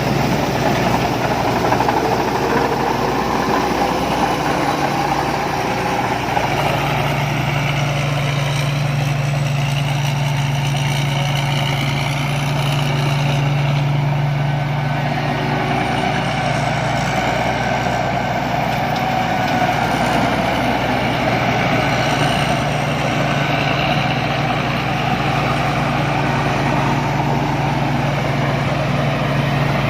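Rice combine harvester's diesel engine and threshing machinery running steadily with a low, even drone.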